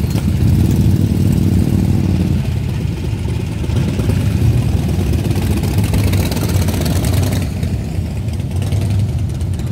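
A car's engine idling with a deep, steady rumble. A layer of higher hiss over it drops away about seven and a half seconds in.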